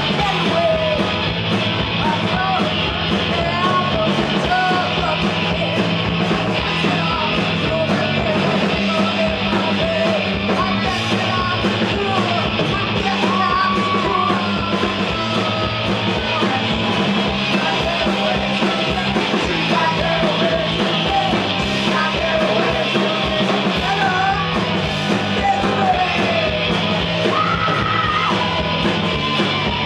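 Live rock band playing an instrumental passage, loud and continuous, with electric guitar, bass and drums and some yelling or singing over it.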